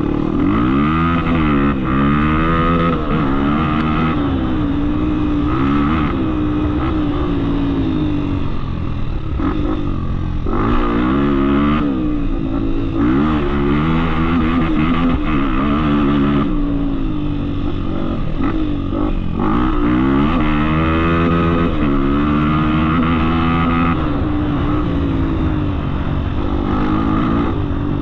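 Off-road motorcycle engine under way, revving up and easing off again and again, its pitch climbing with the throttle and dropping back every couple of seconds.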